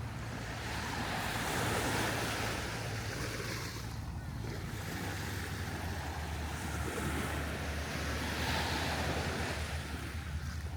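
Gulf surf washing onto the beach, the hiss of breaking waves swelling twice, with wind rumbling on the microphone.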